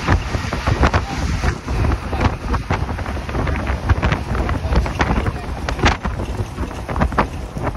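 Hino 1J bus under way: a heavy, steady low rumble of engine and road with wind noise, and frequent irregular knocks and rattles.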